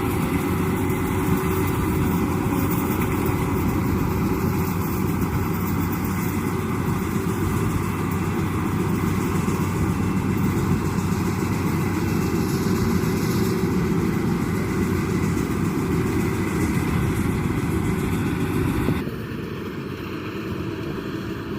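Yanmar AW82V combine harvester's diesel engine running steadily with its harvesting machinery; the sound drops and thins out about nineteen seconds in.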